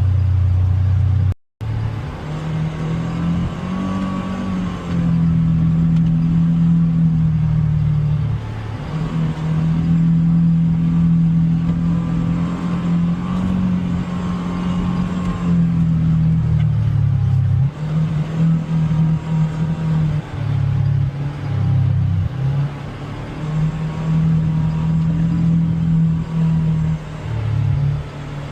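Polaris Xpedition UTV's engine running under changing throttle, its pitch holding, rising and falling as it drives the trail. The sound cuts out for an instant about a second and a half in.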